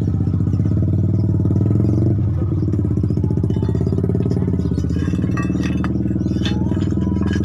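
A motor or engine running steadily at a constant speed, with a few light clattering knocks in the second half.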